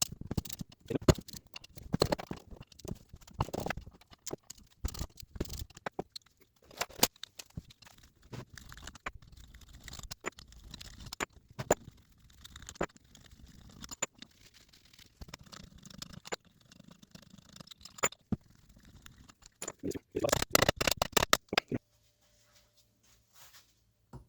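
Irregular metal clicks, clinks and scrapes of hand tools working the 10 mm front bolts on an Eaton M62 supercharger. There is a quicker run of clicks about twenty seconds in, then a couple of seconds of near silence.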